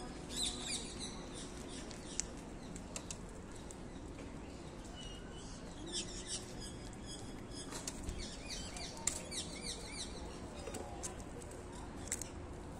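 Small birds chirping in short scattered bursts among the trees, over a steady low hum of city background.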